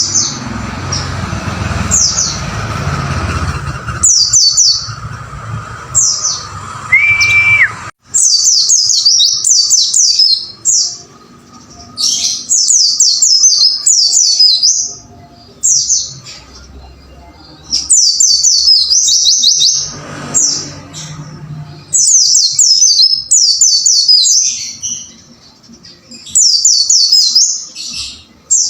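White-eye (pleci) song: bouts of fast, high, twittering 'wucit wucit' phrases, repeated every couple of seconds with short gaps. A low rumble sits under the first several seconds, and a short steady whistle-like tone comes in around seven seconds.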